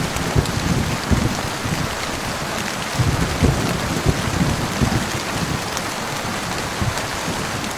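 Heavy rain falling steadily, with a low rumble of thunder swelling and fading in the middle of the stretch.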